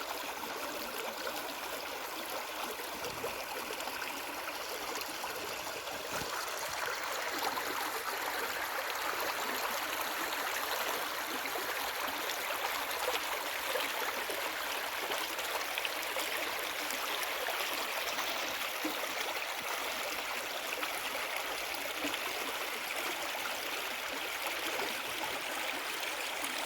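Stream water running steadily, a little louder from about six seconds in.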